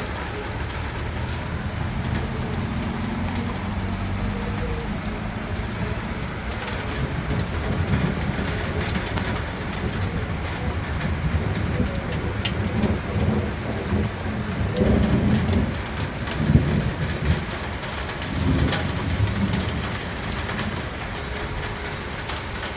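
Steady rain falling, with a low rumble that swells several times in the second half.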